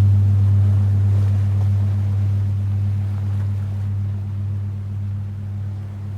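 Large Tibetan singing bowl ringing on after a strike, a deep steady hum that slowly fades, over a soft wash of ocean waves.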